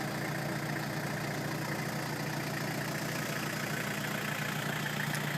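Toyota Hilux 3-litre turbo-diesel engine idling steadily.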